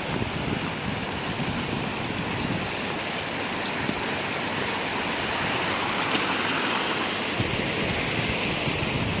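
Heavy rain pouring down: a steady, dense rush of water noise.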